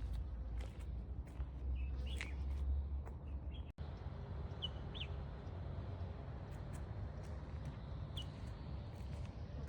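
A few short high bird chirps over a steady low rumble.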